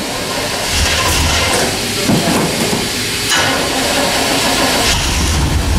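Old Chevy pickup's carbureted 305 V8 cranking on the starter on a cold start, turning over in a couple of stretches, then catching and running near the end.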